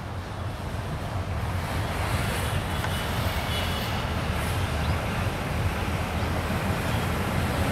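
Diesel locomotive hauling a passenger train on the approach, a steady low engine rumble mixed with wheel-on-rail noise that grows louder over the first two seconds and then holds.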